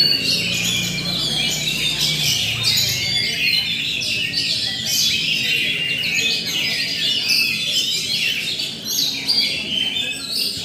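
Oriental magpie-robin (kacer) singing a continuous, fast, varied stream of chirps and whistles. This is the rolling, full fighting-mode song that Indonesian songbird keepers prize.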